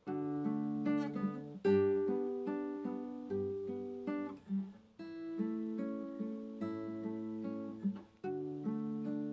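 Acoustic guitar played slowly and softly, plucked notes and gentle chords that ring and fade one after another, with a new chord struck every second or two.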